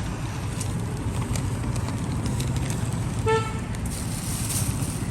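Steady rumble of street traffic, with one short vehicle horn beep about three seconds in.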